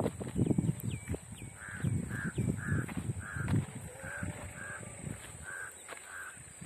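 A crow cawing about eight times in a steady series, a little under two caws a second. Under the first few caws there is low rustling and crunching, which fits goats browsing on foliage.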